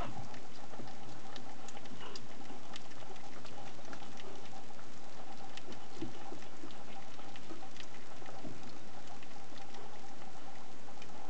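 Chihuahua puppy eating, with many small irregular clicks and smacks of its mouth working at the food.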